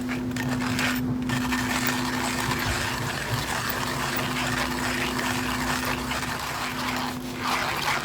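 Coffee grinder grinding freshly roasted beans on a fine setting, a steady grinding rasp from about a second in until near the end, over a constant low hum.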